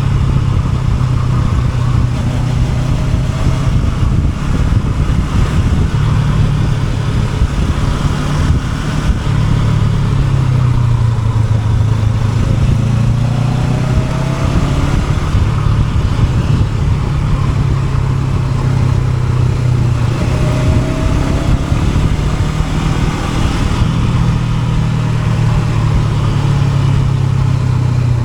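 Honda NX500 parallel-twin motorcycle engine running under way, its note rising and falling a little with the throttle, over steady road and wind noise.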